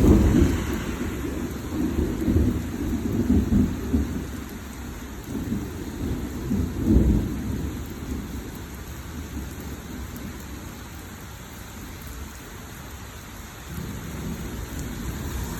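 Thunder rumbling low during a thunderstorm, loudest at the start and again about seven seconds in, then dying down before a weaker roll near the end, over the steady hiss of rain.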